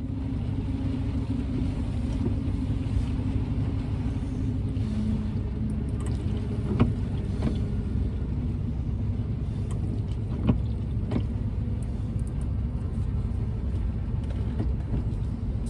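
Steady low rumble of the 1996 Dodge Ram 2500 van with its engine running, a held hum dipping slightly in pitch about five seconds in. A few sharp knocks cut through it, the loudest about seven seconds in and again about ten and a half seconds in.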